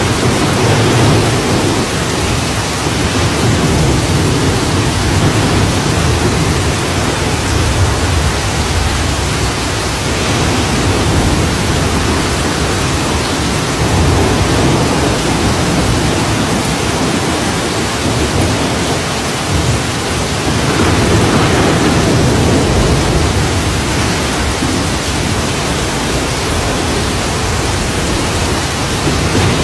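Steady heavy rain with no break, with a low rumble underneath that swells and fades several times.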